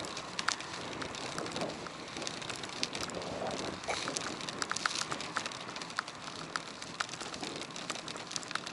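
Action-camera audio from a bicycle ride: a steady rush of wind and tyre noise, with many irregular light clicks and ticks scattered throughout.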